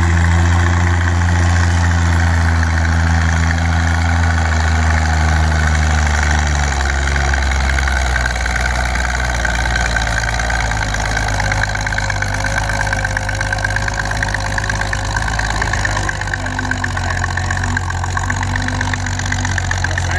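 Farm tractor engine running with a steady low hum that changes and becomes rougher about six seconds in.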